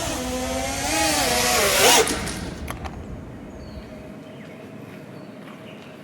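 FPV racing-drone motors (1960kv brushless motors on 6S) whining and changing pitch, then cutting off abruptly about two seconds in. A few faint clicks follow in the quiet.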